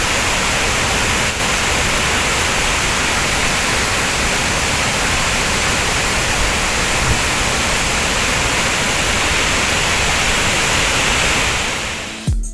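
Flooded waterfall making a loud, steady rush of falling water that fades out near the end.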